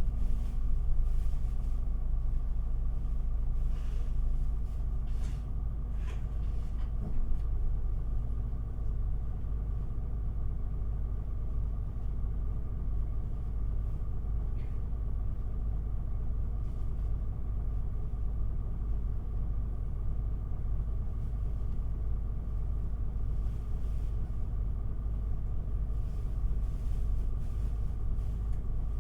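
Isuzu Erga city bus (QPG-LV234L3) heard from inside the passenger cabin: a steady diesel engine and road rumble with a level hum, and a few light rattles in the first several seconds.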